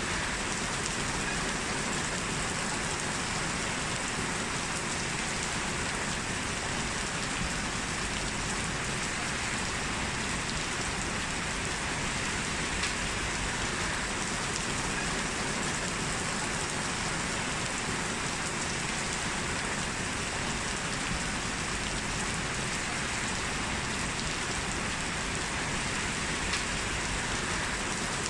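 Heavy rain falling steadily, an even rushing hiss of rain on surfaces.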